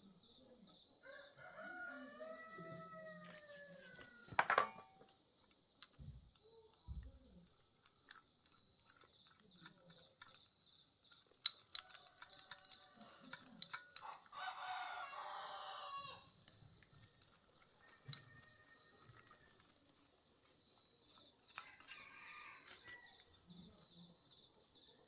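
A rooster crowing once, a rising-then-falling call about a second in, over a steady high chorus of insects. Scattered sharp clicks and knocks come and go.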